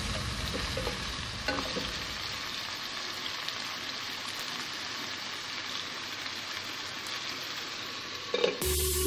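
Chicken pieces sizzling as they sear in hot oil in a nonstick pot, a steady frying hiss. Background music comes back in near the end.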